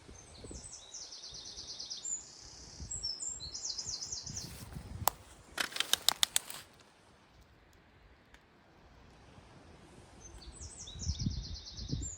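A small songbird singing quick, high trilled phrases near the start and again near the end, with a short run of sharp clicks about halfway through. Wind buffets the microphone with a low rumble.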